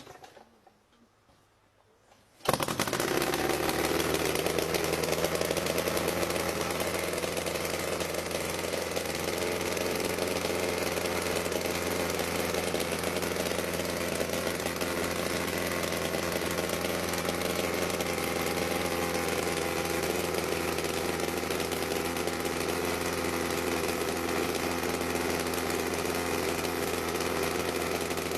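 Engine of a home-built helicopter bursts into life about two and a half seconds in and then runs steadily.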